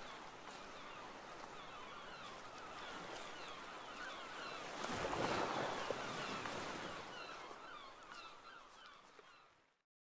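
Seaside ambience: waves washing in, the surge loudest about halfway through, with many birds calling in short chirps throughout. It fades out just before the end.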